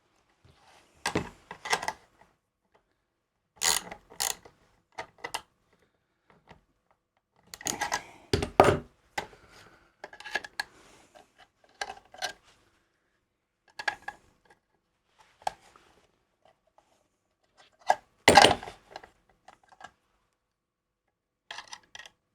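Metal tools and small hardware handled at a workbench: scattered clicks, clinks and knocks at irregular intervals, with two louder clatters about a third of the way in and again near the end.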